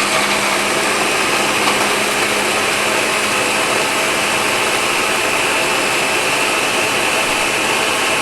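Electric blender running steadily at full speed, grinding boiled dried chillies, pineapple and seasonings into a coarse sweet chilli sauce.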